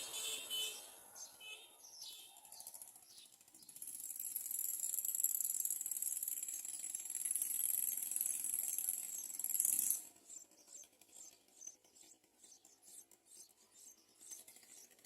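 A few bird chirps, then a steady high-pitched insect buzz that lasts about six seconds and cuts off suddenly, followed by faint scattered ticks.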